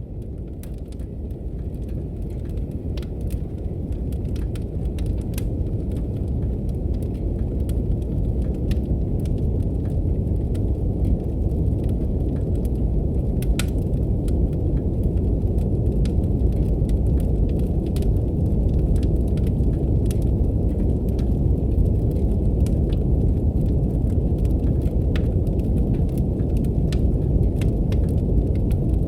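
Brown noise, a deep steady rumble, mixed with the sparse crackles and pops of a wood fire in a fireplace. It fades in over roughly the first ten seconds, then holds steady.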